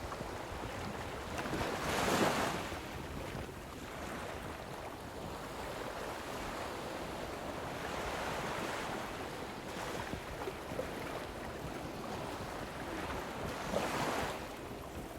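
Lake waves washing against the shoreline, with wind buffeting the microphone. The waves surge loudest about two seconds in and again near the end.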